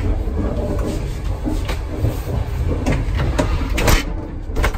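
Passenger train coach running, heard from inside: a steady low rumble with several sharp knocks and rattles, the loudest about four seconds in.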